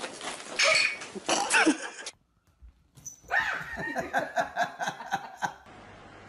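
Cat hissing and yowling as it squares off with another cat, cut off about two seconds in. After a brief gap comes a rapid run of short animal cries, about five a second, each falling in pitch.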